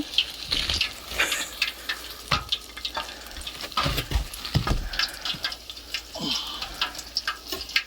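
Hot oil in a turkey deep fryer sizzling with irregular crackles.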